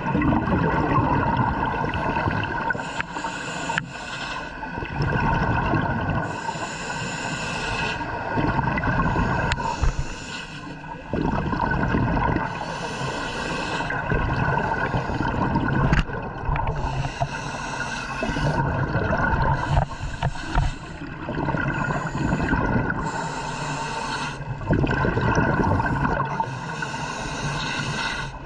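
Scuba diver breathing through a regulator underwater: exhaled bubble bursts rush out every few seconds between quieter inhalations, over a steady droning hum.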